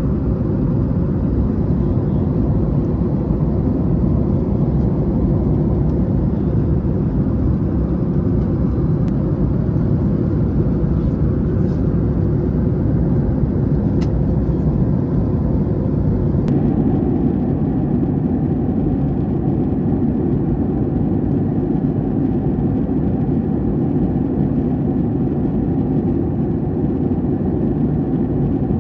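Steady cabin noise inside a Boeing 737-800 in flight: the drone of its CFM56-7B engines mixed with airflow along the fuselage. About sixteen seconds in, the drone shifts abruptly to a slightly different steady tone.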